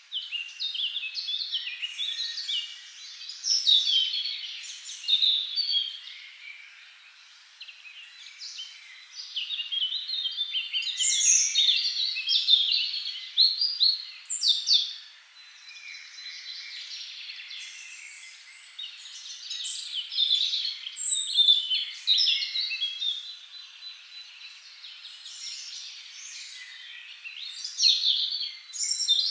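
Dawn chorus of several forest songbirds singing at once: many overlapping high chirps, trills and whistles, in louder bursts and quieter stretches.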